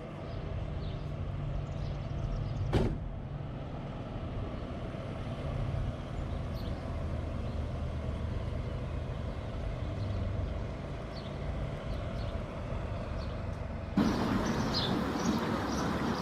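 A car engine idling steadily, with a single sharp knock about three seconds in and faint bird chirps above it. Near the end the sound cuts abruptly to louder open street noise.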